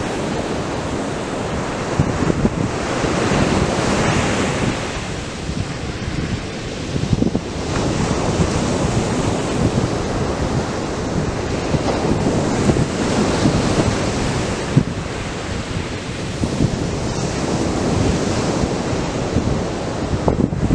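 Atlantic surf breaking on a sandy beach: a continuous wash of waves that swells and eases every few seconds, loudest a few seconds in and again in the middle stretch.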